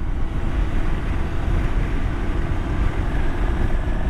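Motorcycle riding at road speed: heavy wind rumble on the microphone with the engine running steadily underneath.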